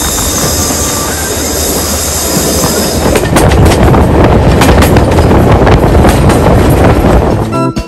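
Jacobite steam train's passenger carriages running along the track, heard from an open carriage window: a steady rush with a few faint wheel squeals on the curve in the first couple of seconds. About three seconds in it grows louder, with a heavy rumble and rapid clacking of the wheels over the rails. Right at the end it gives way to music.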